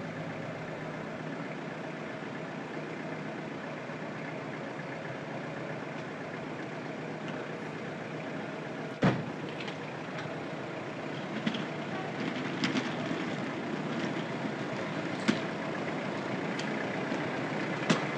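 A car engine idling steadily under outdoor noise. A sharp knock comes about nine seconds in, then a scatter of lighter clicks and knocks.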